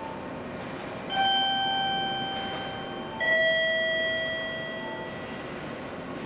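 A two-note descending 'ding-dong' chime: one bell-like tone about a second in, then a lower one two seconds later, each fading slowly. A steady train rumble continues underneath.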